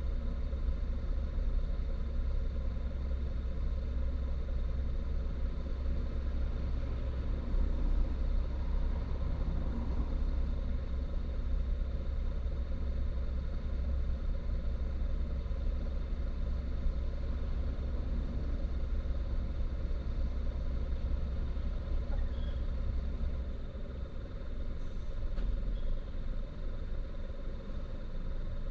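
Car driving on Bridgestone Regno tyres: a steady low road and tyre rumble heard inside the cabin, easing a little about three quarters of the way through.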